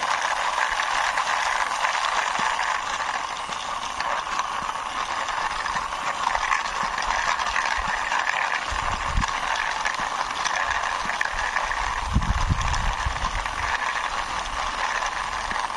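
Toy sports car's wheels rolling continuously over a surface as it is pushed along by hand, with a few low thuds about nine seconds and twelve seconds in.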